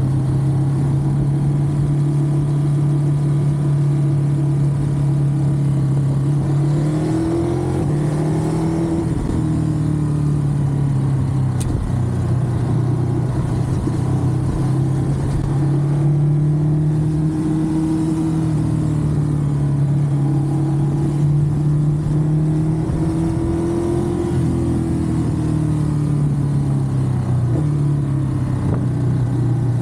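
Ducati Monster's L-twin engine running under way at fairly steady revs, its note rising and easing off gently a few times as the throttle changes.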